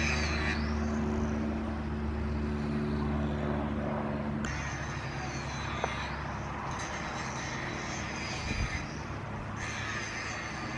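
An engine running with a steady low drone; its pitch pattern changes about four and a half seconds in. A brief click comes near the middle.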